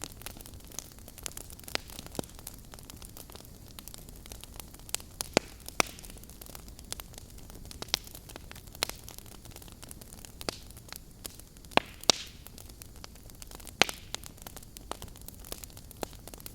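Wood fire crackling in a fireplace: irregular sharp pops and snaps, a few of them loud, over a steady low hiss.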